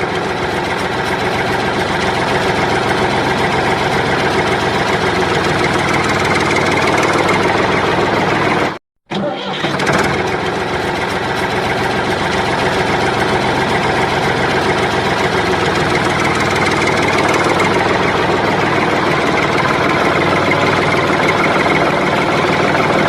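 Engine running steadily, with a brief complete cut-out about nine seconds in before it resumes.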